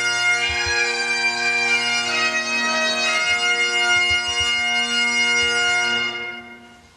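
Bagpipes playing a tune over their steady drones, dying away near the end.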